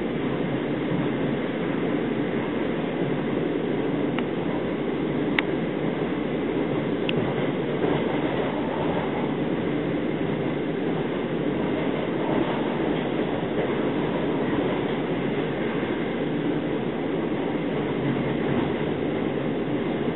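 Steady running noise heard inside a 25Z passenger coach at speed: an even rumble of wheels on rail, with a few brief clicks between about four and seven seconds in.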